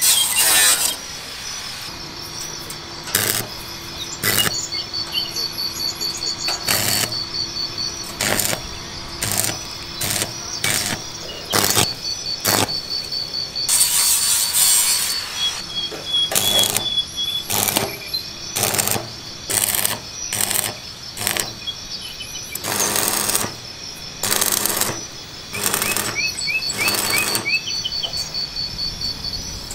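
Knife chopping on a wooden cutting board in irregular single strokes, with a couple of longer scraping passes. Underneath runs a steady pulsing insect trill, with a few bird chirps.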